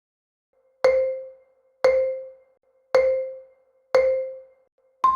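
Countdown sound effect of short mallet-like chimes: four identical low tones about a second apart, each dying away quickly, then a single higher tone near the end that signals the time is up.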